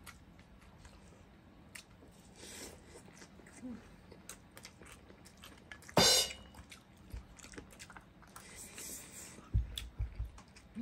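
Close-up eating sounds, chewing with small mouth clicks, of people eating fried fish and mussels. About six seconds in there is one sharp, loud clack, a mussel shell knocking against the glass serving bowl. A few low, dull thumps come near the end.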